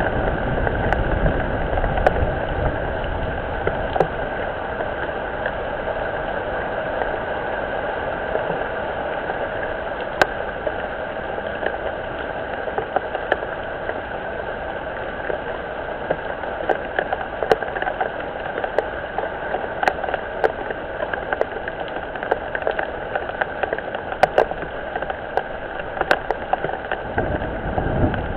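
Steady rain falling, a continuous hiss scattered with sharp ticks of single drops striking close to the microphone. A low rumble fades out early on and comes back near the end.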